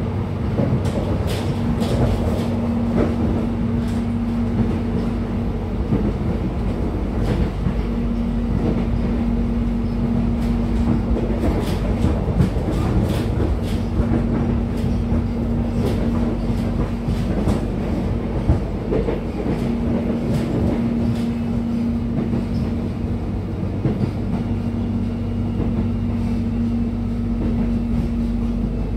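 Inside a moving passenger train carriage: the steady rumble of the wheels on the track, with scattered clicks and rattles. A steady hum drops out and comes back several times.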